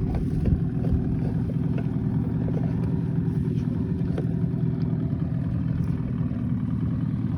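New Sea Pro outboard motor running with a steady hum at low revs on its first outing, kept at low throttle while it is broken in.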